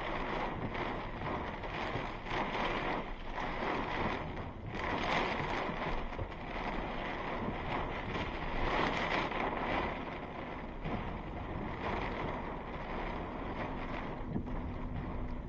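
Thunderstorm wind blowing in strong gusts: a loud rushing noise that swells and eases.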